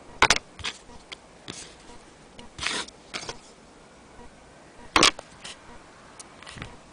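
Scattered clicks, knocks and rubbing of something being handled, with no steady rhythm. Two sharp clicks stand out, one just after the start and one about five seconds in, with a short rubbing sound in between.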